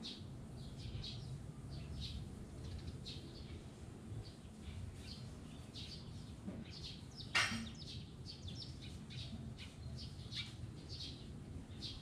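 Small wild birds chirping, short high chirps several times a second over a steady low rumble, with one louder sharp sound about seven seconds in.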